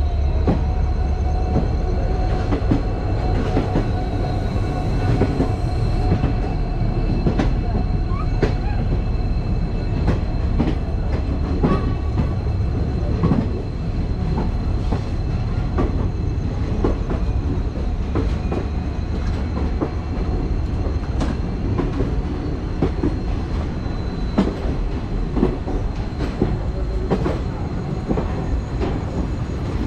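Passenger train coaches rolling on the track, with a continuous rumble and irregular clicks and knocks of the wheels over rail joints and points. A faint steady high-pitched wheel squeal runs through most of it.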